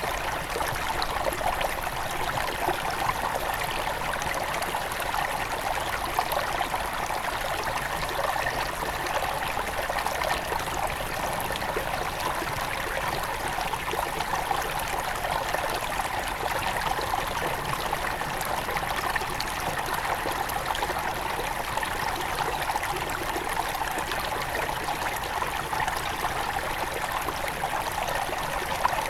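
Small forest river at its headwaters flowing steadily over stones, a constant splashing and trickling of water.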